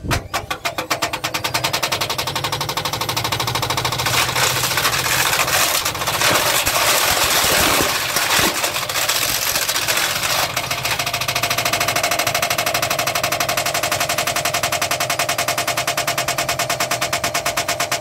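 Whirlpool washing machine running at spin and banging hard with a fast, machine-gun-like knocking as it shakes itself apart. The knocking speeds up in the first seconds, turns into a harsher clatter through the middle and settles into a steady rapid knock with a hum near the end.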